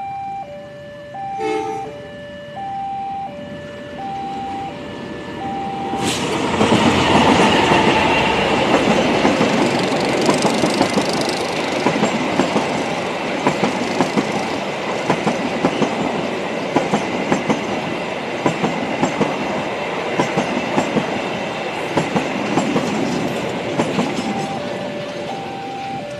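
Railway level-crossing alarm sounding a two-tone electronic ding-dong. About six seconds in, a passenger train arrives suddenly and passes at speed, its wheels clattering steadily over the rail joints. Near the end, as the train clears, the crossing alarm is heard again.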